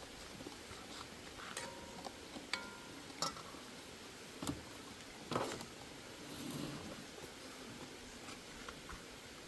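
Scattered clinks and knocks of pots and cooking utensils, a few of them ringing briefly like struck metal, over a quiet room background.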